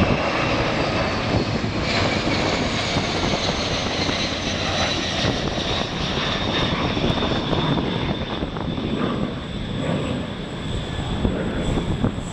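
Jet engines of the Boeing 747 Shuttle Carrier Aircraft with Space Shuttle Endeavour on its back, a loud steady roar during a low flyby. The high whine in it falls slowly in pitch, and the roar eases slightly near the end as the jet moves away.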